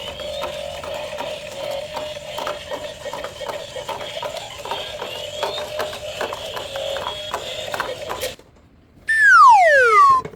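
Rapid irregular clicking, like a small ratchet or gear mechanism, over a steady hum for about eight seconds. After a short pause comes a loud falling whistle, a cartoon-style drop sound effect, which cuts off near the end.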